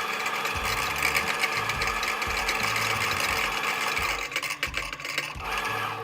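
Electric coffee grinder running, grinding beans into the portafilter with a fast, even mechanical whir. It turns choppier and uneven about four seconds in.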